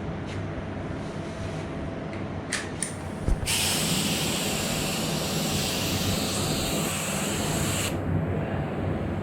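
Compressed-air paint spray gun hissing as it sprays a coat of basecoat, starting about three and a half seconds in and cutting off about a second before the end. A steady low mechanical hum runs underneath, with a couple of light clicks just before the spraying starts.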